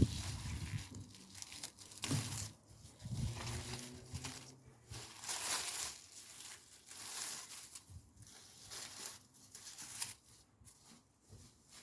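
Potato plant stems and leaves rustling and tearing in irregular bursts about a second apart as the foliage is cut back before digging.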